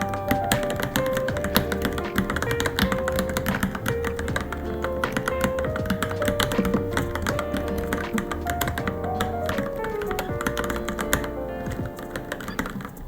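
Fast, continuous typing on a Varmilo Minilo mechanical keyboard, a dense stream of key clicks, over background music with a melody.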